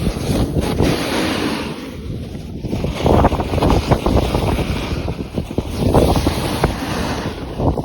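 Wind buffeting the microphone: loud, gusty rumbling that gets rougher and more crackly about three seconds in.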